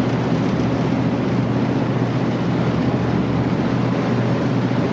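Steady drone of a patrol boat's engines under way, with a constant rush of wind and sea noise over it.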